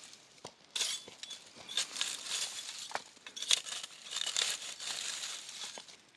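Irregular crinkling and rustling, like something being handled or crumpled, with a few light clicks.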